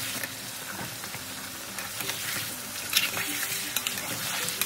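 Chicken pieces frying in hot oil, a steady sizzle with a few sharp knocks, the loudest about three seconds in.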